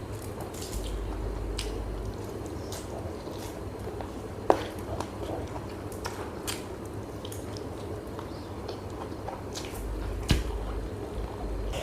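Close-up eating sounds: a person chewing food, with small wet clicks and squishes, and two sharper clicks about four and a half seconds in and again near ten seconds.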